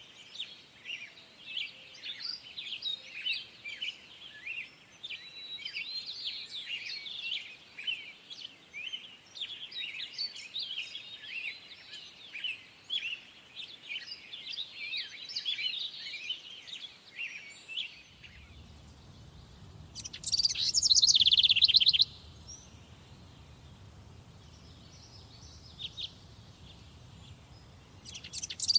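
Birds singing in a summer forest. For about the first two thirds, many small birds chirp at once in a dense chorus. Then the background changes to a low rumble, and a single songbird sings a loud, rapid trilled phrase twice, about eight seconds apart.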